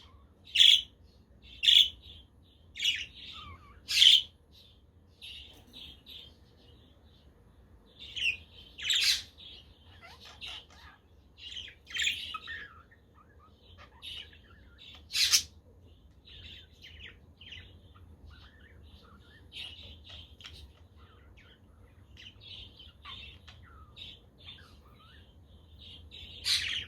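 Budgerigars chirping and warbling together in a busy, overlapping chatter, with louder sharp squawking calls breaking out every few seconds.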